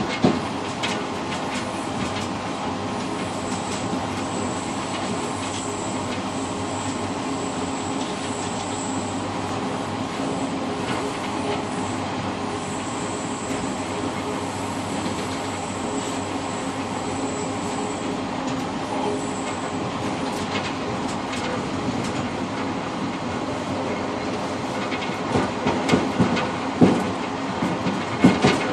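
Passenger train running along the track, heard from inside the rear car: a steady rolling rumble with a faint high whine for most of the first two-thirds. Near the end come a run of sharp clacks from the wheels.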